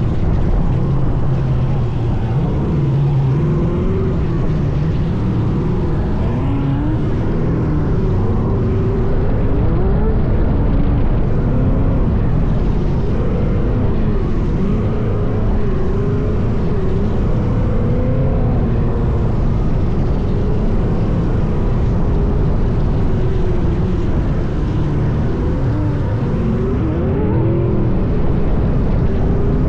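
Off-road sand car driving hard, its engine pitch rising and falling with the throttle over a heavy, continuous low rumble.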